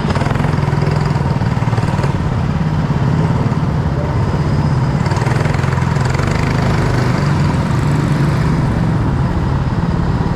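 Go-kart engine running steadily at a near-constant speed, with no clear revving up or down.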